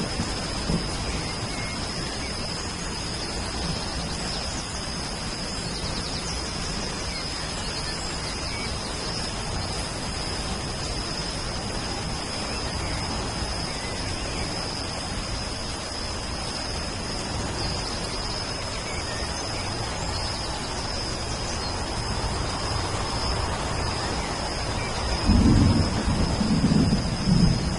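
Steady rain falling, with a high steady tone running under it, and two heavy rumbles of thunder near the end.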